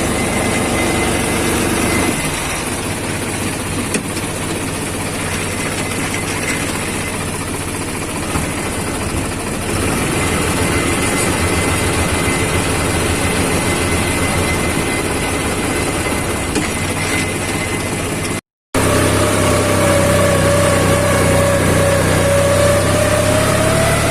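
Tractor diesel engine running steadily. It cuts out for a moment about three-quarters of the way through, then comes back louder with a steady whine over the low engine note.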